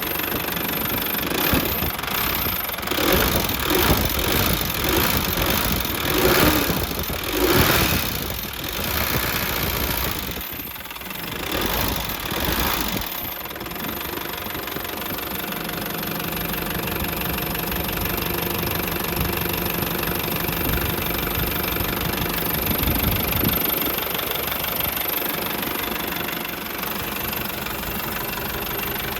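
Nissan ED30 diesel engine of an old Nissan Cabover C240 dump truck, rising and falling unevenly for the first dozen seconds, then settling to a steady, knocking diesel idle.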